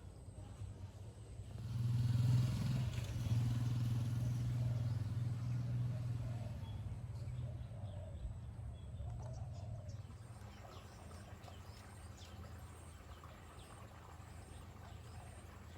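A motor vehicle's engine running with a steady low hum. It gets louder abruptly about two seconds in, then slowly fades away.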